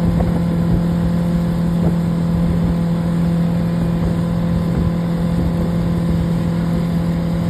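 Motorboat engine running steadily at one pitch, as when towing a banana boat, over a rough low rush of wind and water.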